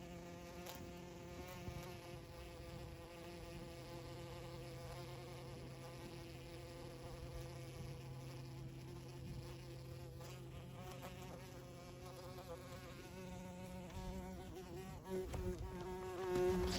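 A bee buzzing in flight, a steady wing hum that shifts pitch now and then as it hovers around a can.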